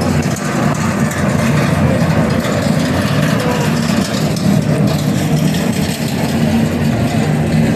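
A steady low engine hum, like a vehicle idling, beneath the continuous chatter of a street crowd.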